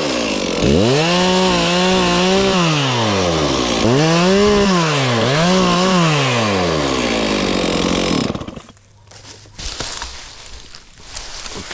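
Chainsaw revving up, holding and dropping back about three times while cutting up tree limbs, then winding down and stopping about eight seconds in. Faint rustling and crackling of brush follows.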